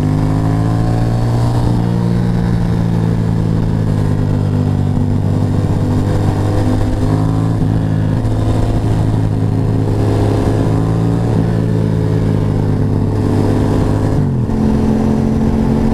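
Motorcycle engine running at a steady cruising speed, heard from the rider's position with wind noise; the engine note dips and changes pitch briefly near the end.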